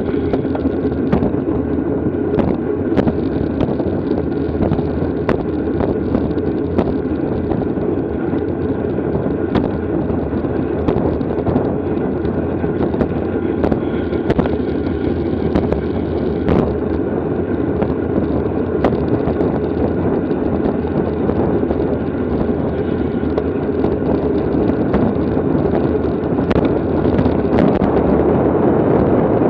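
Steady wind rush buffeting the microphone of a camera riding with a bicycle in a criterium race, with scattered sharp clicks and knocks.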